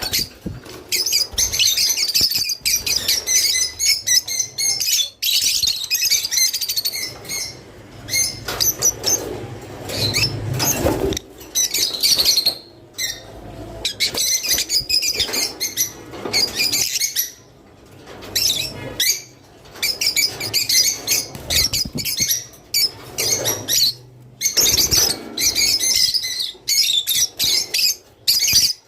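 A flock of peach-faced lovebirds ('roz') chattering: a dense, continuous stream of rapid, high chirps with only brief pauses. It is played as a breeding-stimulation call.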